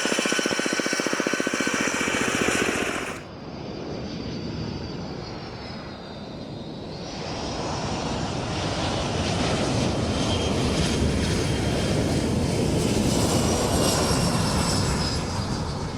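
Aircraft engines. A loud, rapid buzzing drone cuts off abruptly about three seconds in. Then a jet engine's rushing noise and whine swell as an aircraft passes, the whine falling in pitch near the end.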